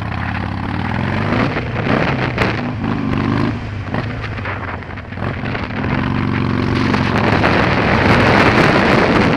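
Harley-Davidson Iron 883's air-cooled V-twin engine pulling through the gears, its pitch rising, falling at a shift about three and a half seconds in, then rising again. Wind noise on the microphone grows loud near the end as speed builds.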